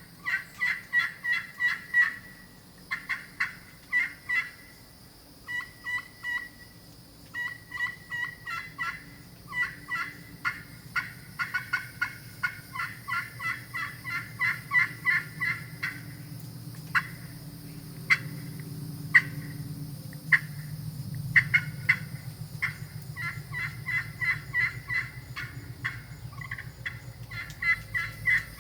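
Canary wood and aluminum turkey friction call, played with a striker in runs of rapid yelps at about three to four notes a second, broken by short pauses. A few single sharp clucks come near the middle.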